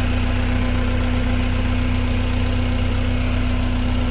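Tractor engine idling steadily, a constant low running sound with no change in revs.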